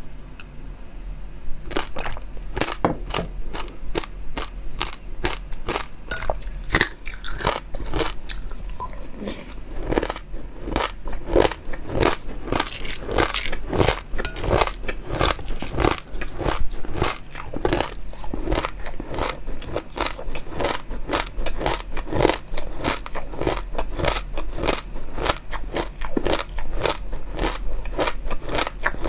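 Close-miked eating: rapid, irregular crunching and chewing of food in the mouth, starting about a second and a half in and going on steadily.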